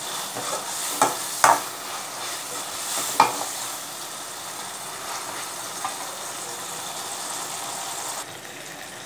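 Chopped chow chow (chayote) frying in oil in a metal kadai, sizzling steadily while a spoon stirs it. The spoon clinks sharply against the pan a few times in the first few seconds, and the sizzle turns quieter near the end.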